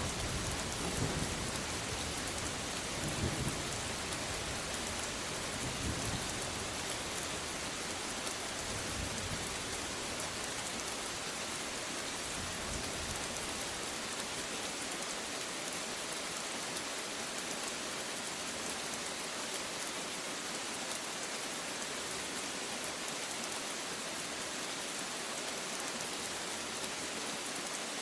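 Steady rain hissing, with low rolling thunder in the first half that fades out about halfway through.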